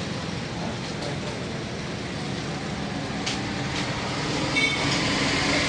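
Steady mechanical machinery noise, with a couple of clicks in the middle and a brief high squeal about four and a half seconds in.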